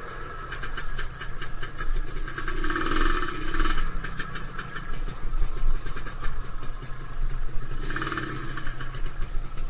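Two-stroke motorcycle engine running steadily, with two short louder buzzy sounds about three and eight seconds in.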